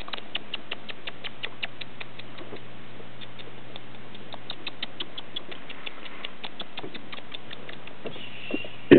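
Quaker parrot making a long run of short, sharp clicks, about three to four a second, with a faint high squeak near the end.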